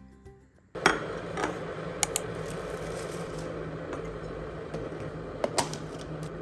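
Music ends, then steady room hum with a few sharp clicks and clinks: objects being handled, twice in quick pairs.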